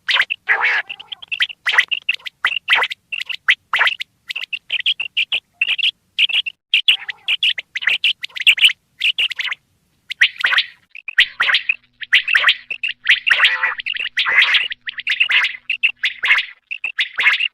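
Common quail calls: rapid, repeated high chirps in quick runs, with a short pause about ten seconds in.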